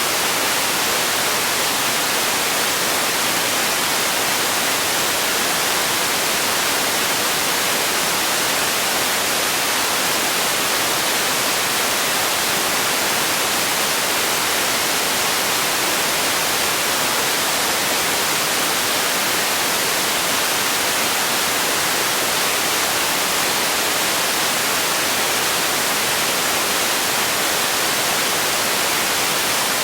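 Steady white-noise hiss, even and unchanging, strongest in the high frequencies with little bass.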